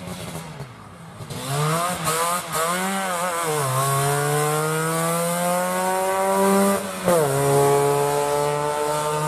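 Trabant P50's two-cylinder two-stroke engine, with its buzzy note, blipped up and down a few times, then pulling hard with the pitch climbing steadily, a quick drop about seven seconds in as it shifts up, then climbing again.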